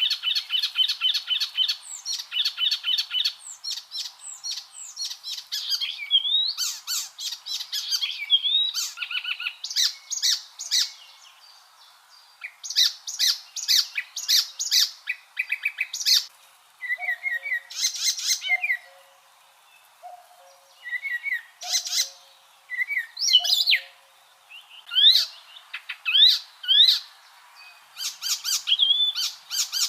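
Icterine warbler singing: a long, varied song of fast repeated notes, chattering trills and quick whistled slurs, broken into phrases with short pauses between them.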